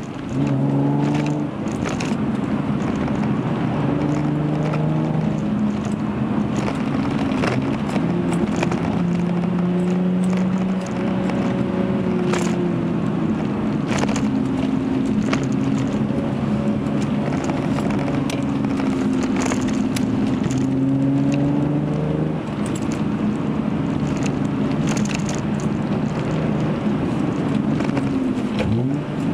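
Hyundai Genesis Coupe's 3.8-litre V6 through a Young Motors cat-back exhaust, heard from inside the cabin while driving. The engine note rises and falls with the throttle and drops briefly about a second and a half in and again about three-quarters through.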